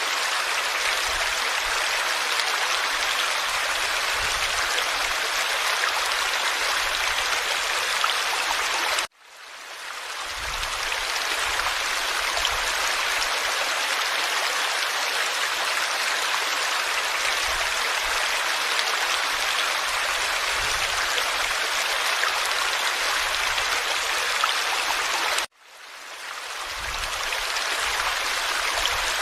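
Forest stream flowing over rocks: a steady, dense rushing and babbling of water. Twice the sound cuts out suddenly and fades back in over a second or two.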